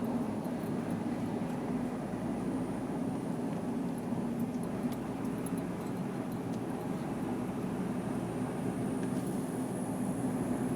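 Jeep Wrangler running, a steady low vehicle drone with no break or change.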